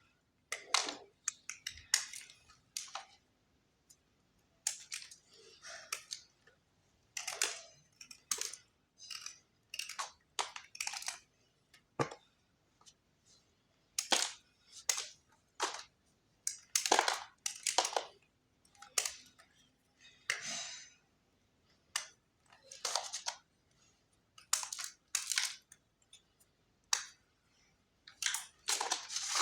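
Khadiya chalk being crunched and crumbling in a series of irregular crackly bursts, one or two a second, with short pauses between them.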